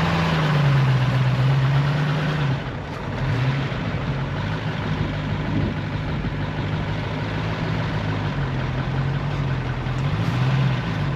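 A 1969 Ford Mustang fastback's engine idling, a steady low note that wavers slightly in pitch, a little quieter after about two and a half seconds.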